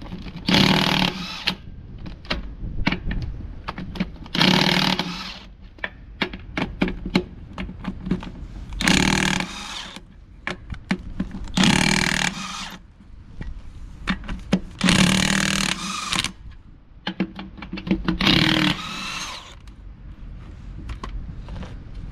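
Impact wrench run in six short bursts of about a second each, with sharp clicks and knocks between them.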